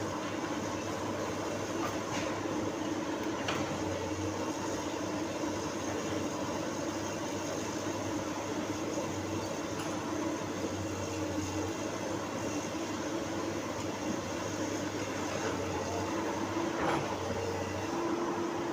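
Komatsu PC200 excavator's diesel engine running steadily, a constant drone with a steady hum, with a few faint clicks.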